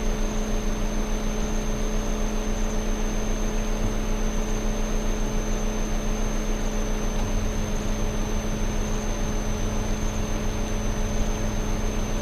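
A motor running at a steady pitch, with a thin high whine above it and a slight rapid throb.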